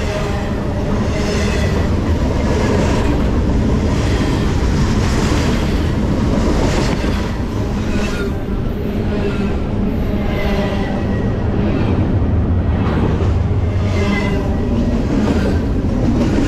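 Freight train of intermodal container well cars passing at close range: a steady, loud rumble of steel wheels on rails, with repeated clacks as wheels cross rail joints.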